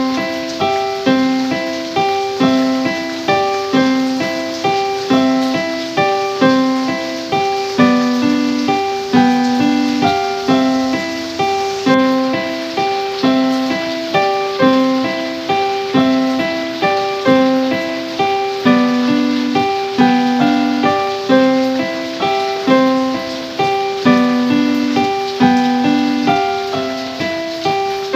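Piano music: notes struck in an even, repeating pattern.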